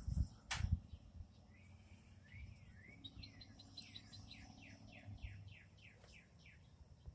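A songbird singing: a few short rising chirps, then a quick run of about a dozen clear whistles, each sliding down in pitch. A few low bumps and a sharp click come within the first second.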